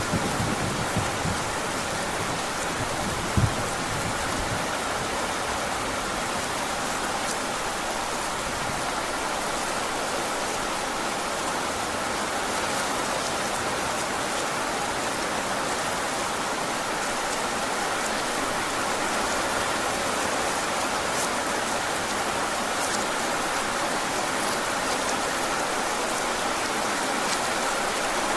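Heavy rain falling steadily. A low thunder rumble dies away in the first few seconds, with one sharp low thump about three seconds in.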